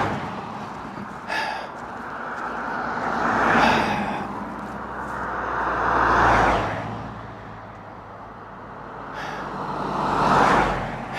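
Cars passing by one after another, each one's tyre and engine noise swelling up and then fading away. Three pass within these seconds, with the tail of another fading at the start.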